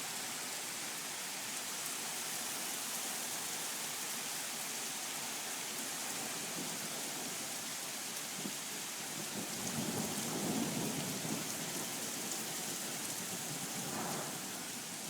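Heavy rain pouring down in a thunderstorm, a steady hiss, with a rumble of thunder swelling and fading about ten seconds in.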